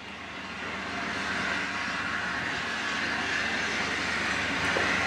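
Steam locomotive approaching and running into the station: a steady rolling noise that grows louder over the first second and a half, then holds.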